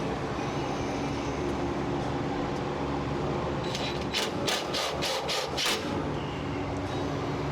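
Five or six quick scraping strokes, about three a second, a few seconds in, over a steady background hum.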